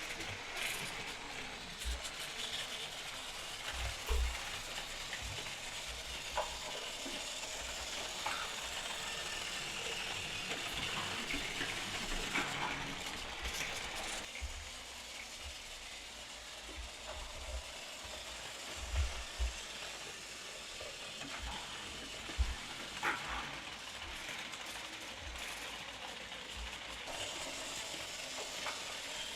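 Battery-powered Plarail toy trains running on plastic track: a steady whirring hum with scattered clicks and knocks.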